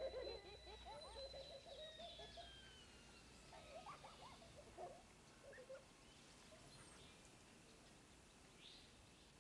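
Faint bird calls and chirps over quiet ambience, busiest in the first few seconds, with a thin high whistle-like tone slowly falling.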